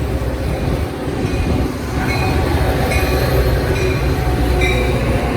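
A train rolling past on the main line, a heavy low rumble that grows louder about two seconds in, with short high squeaks from the wheels on the rails about once a second.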